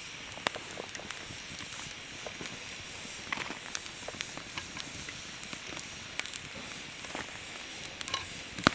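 Wood campfire crackling: a steady hiss with irregular snaps and pops, the loudest a sharp snap near the end.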